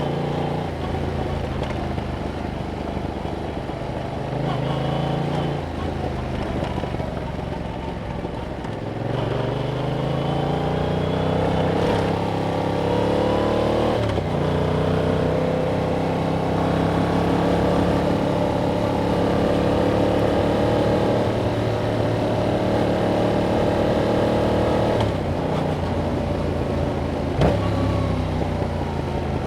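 A 2021 Yamaha MT-07's 689 cc parallel-twin engine, through its stock exhaust, under way on the road. The engine climbs in revs about ten seconds in and drops sharply at a gear change a few seconds later. It then holds a steady pull, eases off briefly, and picks up again near the end.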